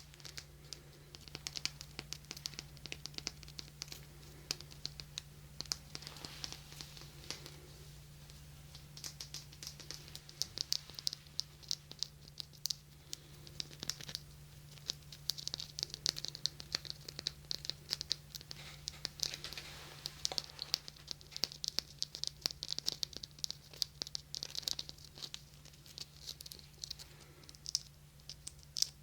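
Rapid, close-up fingertip tapping and scratching, a dense run of crackly clicks that comes in clusters with short lulls, over a faint steady low hum.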